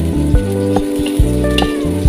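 Chopped onion and garlic sizzling in oil in a stainless steel wok, with a metal spatula scraping and clicking against the pan as it is stirred. Background music with held notes and a bass line plays over it.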